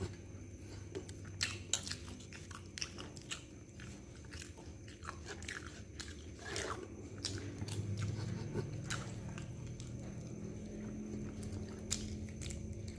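Close-up mouth sounds of a person chewing and biting chicken satay, with many short wet clicks and smacks. A low steady hum comes in about halfway through.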